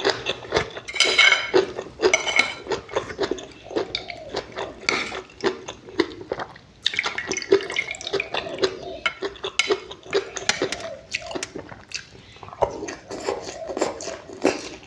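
Close-up wet eating sounds: chewing and lip smacking on fish roe in a runny seafood pla ra sauce, with many small clicks and clinks of cutlery on a dish.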